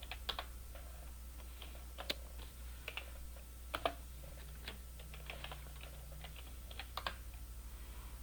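Computer keyboard typing: scattered, irregular keystrokes, a few louder than the rest, over a steady low hum.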